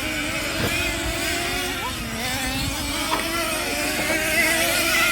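Several nitro-powered Slash 2WD RC trucks racing, their small glow-fuel engines buzzing at high revs. The pitch of the engines keeps rising and falling as they accelerate and lift off through the corners.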